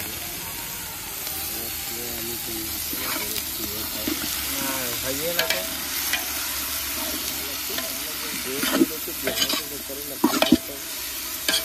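Raw chicken pieces frying and sizzling in hot oil in a large metal pot, stirred with a metal ladle that knocks and scrapes against the pot several times, most often in the second half.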